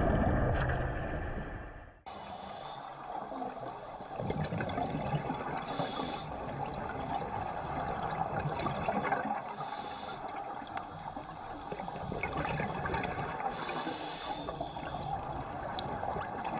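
Underwater water noise with a short hiss about every four seconds, typical of a scuba diver breathing through a regulator. A louder low rumble in the first two seconds ends with a sudden cut.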